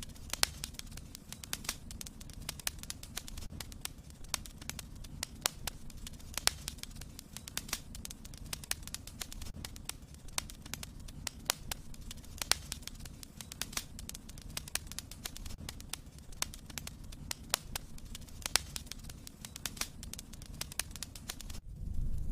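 Wood fire in a fireplace crackling: frequent irregular sharp pops over a low rumble of the flames, cutting off suddenly just before the end.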